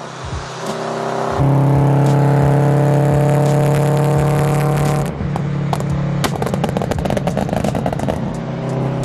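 Supercharged GT86's flat-four engine through cat-less unequal-length headers and a straight-through exhaust, holding steady revs with an even drone that jumps louder about a second and a half in. Past the middle it turns to a rough, rapid crackling burble before settling back to a steady drone near the end.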